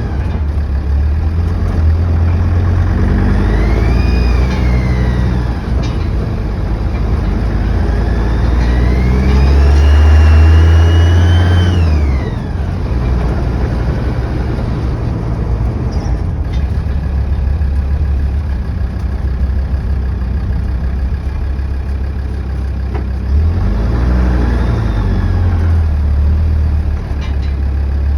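Land Rover Defender TD5's five-cylinder turbodiesel idling and revved three times: a short rev, a longer one held for about four seconds, and another short one near the end. Each rev brings a high whirring whine that climbs and falls with the engine speed and is loudest at the top of the long rev. This is the whirring on boost whose cause the owner has not found; a replacement turbo, exhaust manifold and EGR refit did not change it, and the intercooler pressure-tested fine.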